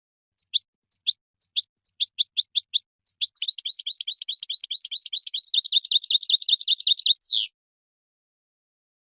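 European goldfinch singing: a series of separate falling notes, about two a second, runs into a fast trill that ends in a quick downward sweep.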